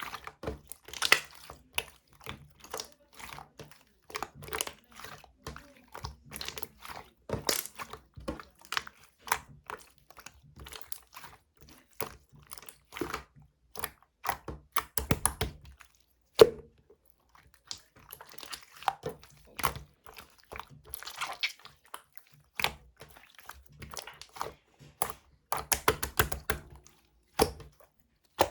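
Hands squishing and working light-green clear slime: a steady stream of irregular sticky clicks and pops, bunching into quick runs in places, with one sharp snap about halfway through.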